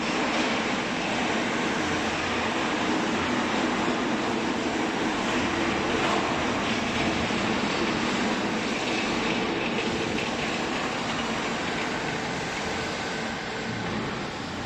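Hydraulic baler running: a steady mechanical drone with a faint low hum, easing off slightly near the end.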